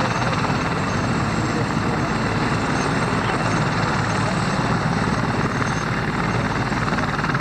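A helicopter running nearby, a loud, steady rotor and engine noise with the downwash pushing air across the field.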